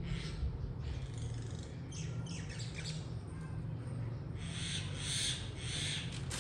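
Small birds chirping: a few quick descending chirps about two seconds in, then a busier run of high chirps around the fifth second, over a steady low hum.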